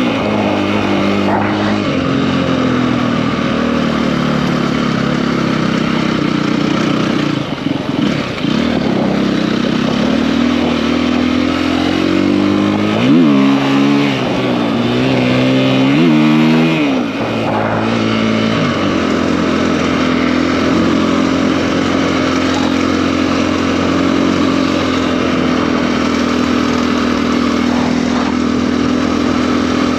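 KTM EXC-F enduro bike's single-cylinder four-stroke engine with a 280 cc big-bore kit, revving up and dropping back in short blips about 13 and 16 seconds in, then running at a steady low pitch from about 19 seconds in.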